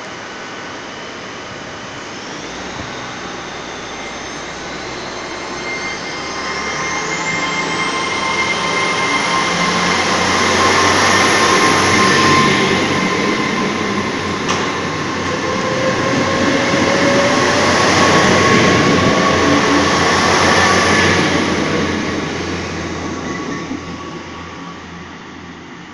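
A Class 800 Intercity Express Train departs, its traction whine rising in pitch over the first several seconds and then holding steady. Its rumble and wheel noise build as the coaches pass and fade away near the end, with a single sharp click partway through.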